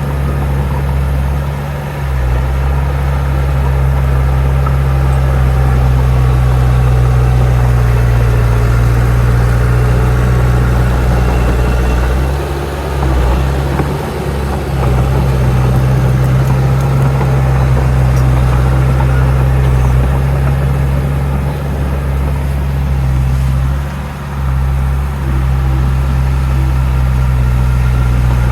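Heavy diesel engine of earthmoving machinery running steadily with a deep drone, easing off briefly twice: about halfway through and again a few seconds before the end.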